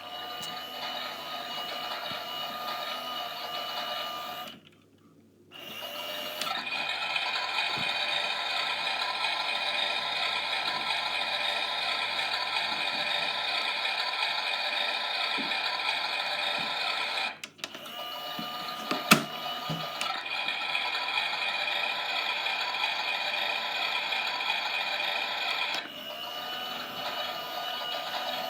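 Miele Softtronic washing machine running its wash cycle, a steady motor whine and hum that stops briefly about five seconds in and dips again near the middle, with a sharp click a little after that.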